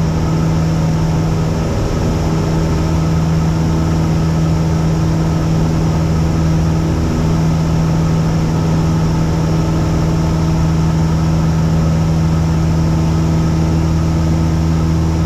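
Cessna 172's single piston engine and propeller droning steadily in flight, a constant hum with a strong low tone and no change in pitch.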